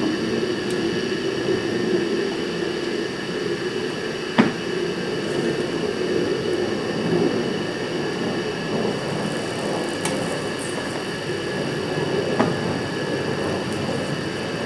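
Oxy-acetylene gas welding torch burning with a steady rushing hiss while thin steel tubing is tack-welded. A single sharp click comes about four and a half seconds in.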